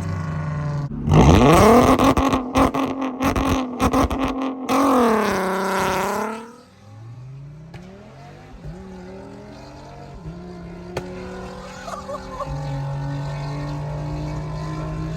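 Car engine with almost no exhaust idling, then revving up hard under full throttle about a second in, the pitch climbing with several short breaks, then rising once more before backing off and falling back to a steady idle.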